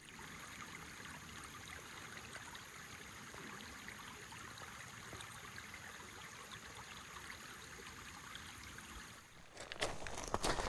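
Creek water running over rocks, a steady rushing. Near the end, a few sharp knocks of footsteps on stones begin.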